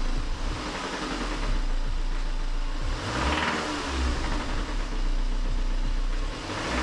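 Mazda MX-5 NC's four-cylinder engine running, revved briefly twice, about three seconds in and near the end. It still makes the unhealthy noise that a fresh oil change and engine flush have not cured.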